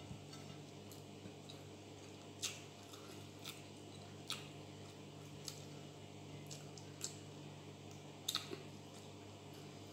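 Quiet eating sounds: scattered sharp mouth clicks and smacks of chewing biryani rice eaten by hand, over a low steady hum.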